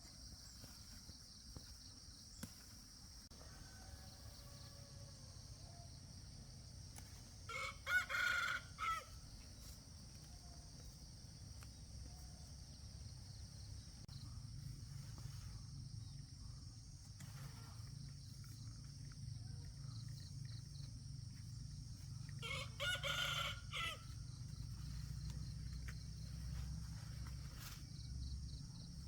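A rooster crowing twice, each crow about a second and a half long, roughly fifteen seconds apart, over a steady high-pitched insect drone.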